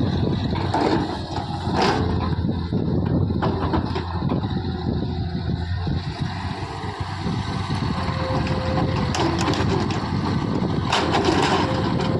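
Diesel engines of a backhoe loader and tractor running steadily, with bursts of clatter about two seconds in and again near the end.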